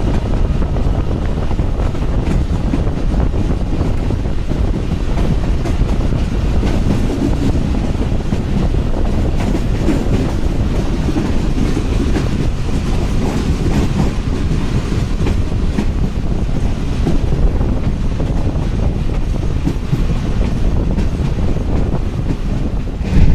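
Moving passenger train: the steady running noise of its wheels on the track, strongest in the low rumble and unchanging throughout.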